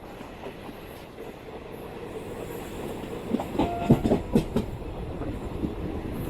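Passenger train running along the track with a steady rumble. About three seconds in comes a quick clatter of half a dozen wheel knocks, the wheels passing over rail joints or points.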